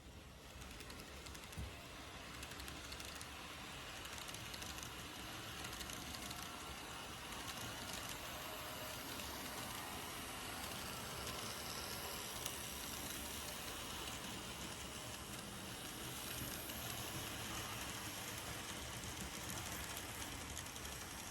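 N-gauge model train running along the track, a rapid clatter of small wheels clicking over rail joints with a steady motor whir. It grows louder over the first few seconds as it approaches, then runs evenly.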